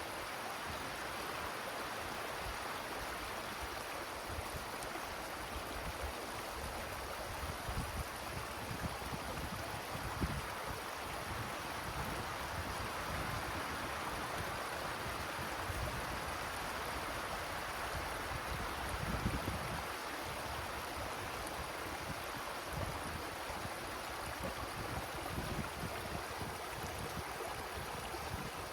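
Wind rushing steadily through forest trees, with occasional low gusts rumbling on the microphone, the strongest about ten and nineteen seconds in.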